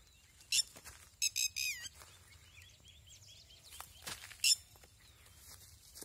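Birds calling: sharp, high calls, with a quick run of four falling notes about a second in and another loud call about four and a half seconds in, and fainter chirps between.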